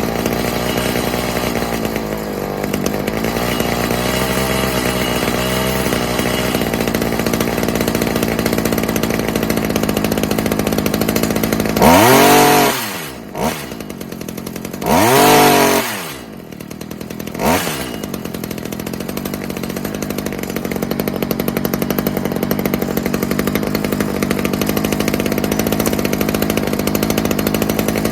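Stihl HS45 hedge trimmer's small two-stroke engine idling steadily on its rebuilt carburettor, revved high three times around the middle, twice for about a second and once briefly, the pitch rising and dropping back to idle each time.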